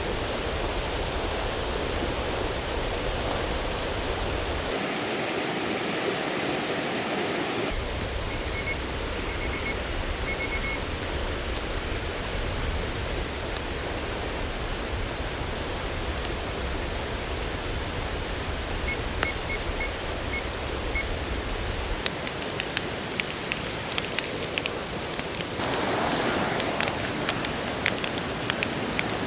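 Steady rushing water noise, with two short runs of faint high chirps and, in the last several seconds, many small ticks like drops landing.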